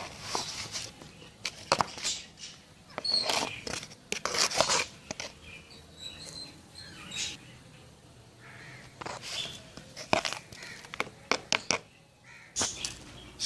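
Irregular scraping, rustling and knocking of potting soil, compost and a plant pot being handled while a plant is repotted, with a run of sharp clicks and knocks about ten to eleven and a half seconds in.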